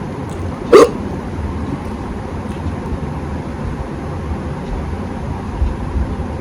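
A dog barking once, a short, loud bark about a second in, over a steady low background rumble.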